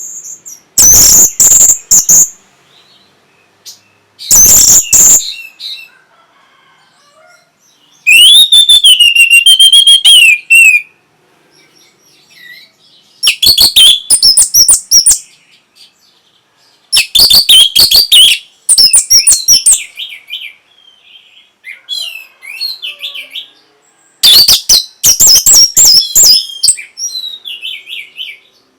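Orange-headed thrush singing: loud phrases of varied high whistles and warbles, about seven bursts of one to three seconds each with short pauses between.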